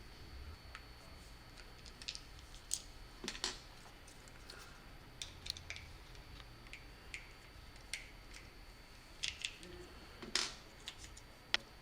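Scattered light clicks and taps of small parts being handled and fitted together during assembly, over a faint steady high tone.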